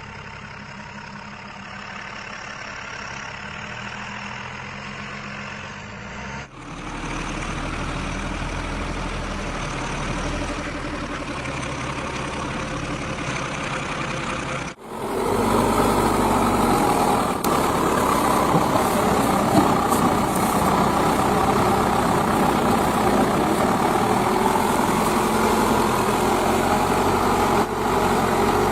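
Diesel engine of a JCB 5CX backhoe loader running steadily while loading mud. The sound changes abruptly about six seconds in and again about halfway through, getting louder the second time.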